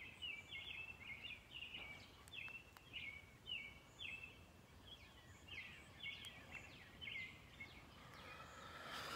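A bird chirping over and over, short high notes about two a second, faint.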